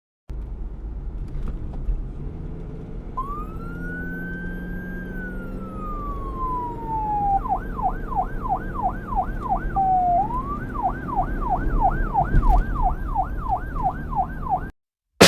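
Police-style siren sound effect over a low traffic rumble: one slow rising and falling wail, then a fast warbling yelp at about three cycles a second, with a brief glide midway, cutting off abruptly near the end.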